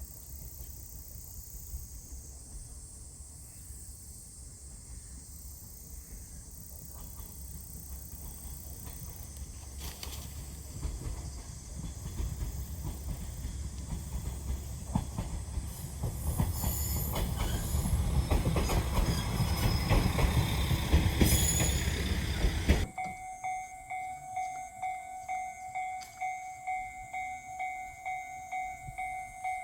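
Diesel railcar of the Yuri Kogen Railway running on the line, its rumble and wheel noise growing steadily louder for about twenty seconds. Then it cuts off sharply and is replaced by a repeating ringing tone, about one and a half strokes a second.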